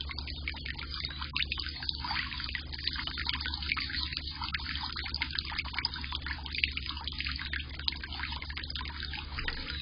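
Solar fountain's jet of water splashing and trickling steadily into a bird bath.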